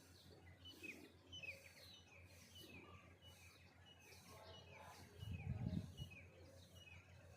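A small bird chirping over and over, short falling notes about twice a second. There is a brief low rumble about five seconds in, the loudest sound here.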